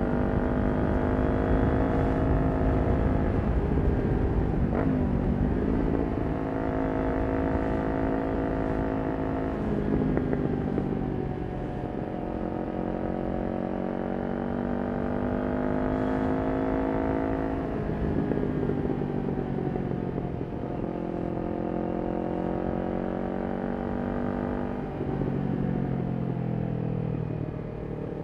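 Kawasaki Ninja 400's parallel-twin engine through a Yoshimura exhaust, ridden at speed with a low rush of wind. The engine note climbs under throttle and falls back at gear changes about 5, 10, 18 and 25 seconds in.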